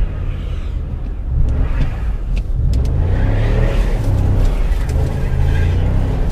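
The 2009 Chevrolet Impala SS's 5.3-litre V8 revs up and down as the driver tries to pull out, while the front wheels spin in the snow. The revving grows stronger about halfway through.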